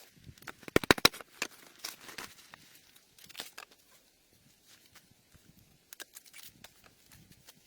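Dry twigs and brush crackling and snapping. A quick run of sharp cracks comes about a second in, followed by scattered crackles and rustling.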